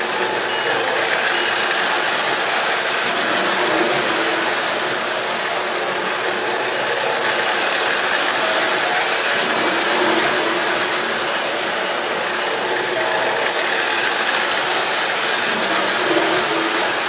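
A train running steadily: a continuous mechanical whir with a rattle of moving parts, even in level throughout.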